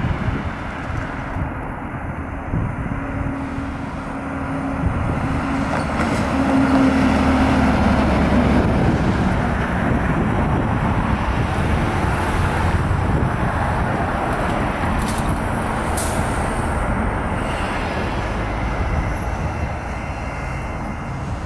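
Fire department ladder truck driving by, its diesel engine running under steady road noise, with no siren sounding.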